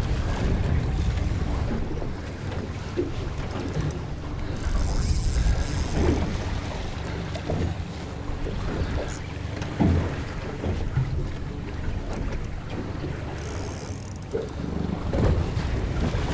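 Wind buffeting the microphone in a low rumble over water slapping against a small boat's hull, with scattered knocks and two brief bursts of hiss.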